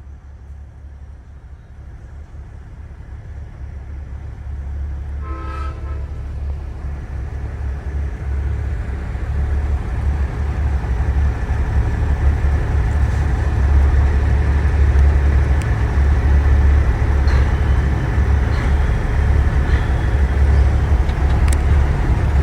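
Big-rig truck's engine running with a low drone that builds steadily louder, with a short air-horn toot about five seconds in.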